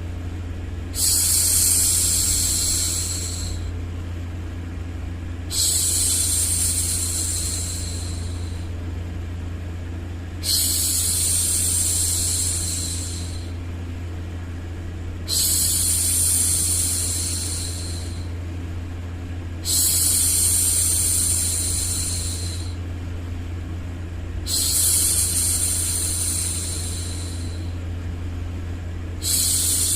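A woman's long hushing 'shhh', repeated seven times, each lasting about two and a half seconds and starting again about every five seconds, over a steady low hum.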